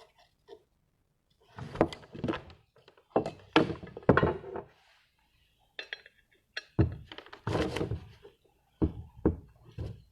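An irregular series of thunks and knocks in several clusters, with quiet gaps between them, like objects being handled and set down on a hard surface.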